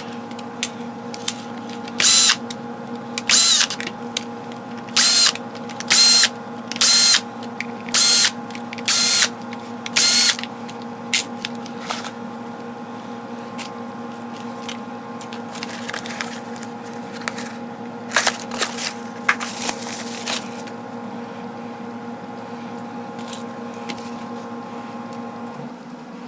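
Cordless drill/driver run in about eight short bursts of half a second or so over the first ten seconds, each spinning up quickly and stopping, followed by scattered small clicks of parts being handled. A steady hum sits underneath and stops shortly before the end.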